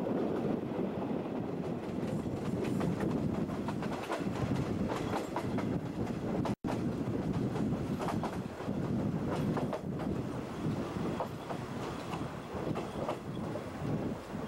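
JNR 50-series passenger coach running on jointed track: a steady rumble with irregular clicks and clatter of the wheels over rail joints. The sound drops out for an instant about six and a half seconds in.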